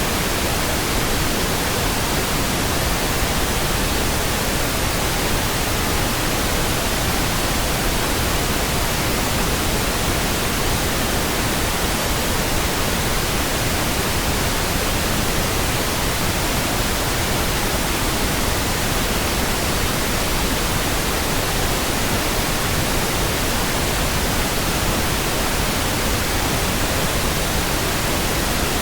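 Steady pink noise: an even, unchanging hiss spread across all pitches, with no tones, no events and no changes in level.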